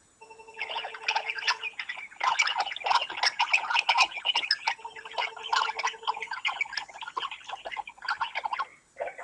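Garbled electronic noise of the kind heard over a smartphone call: rapid, irregular clicking and chattering, with a brief steady tone near the start and again midway.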